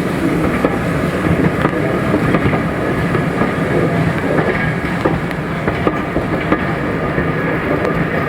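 A train running on the line, loud and steady, with a few clicks from the wheels.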